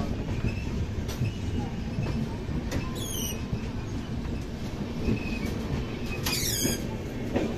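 Moving express passenger train heard from an open coach door: a steady rumble of the wheels on the rails, with two short high-pitched squeals falling in pitch, one about three seconds in and one near the end.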